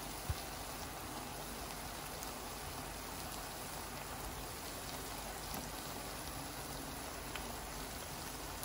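Masala gravy sizzling steadily in a steel kadhai on the stove, with one short tap just after the start.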